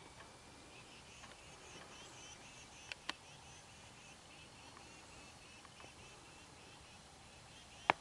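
Faint high chirps of small birds, repeated in quick runs. Two sharp clicks come about three seconds in, and a louder single click near the end.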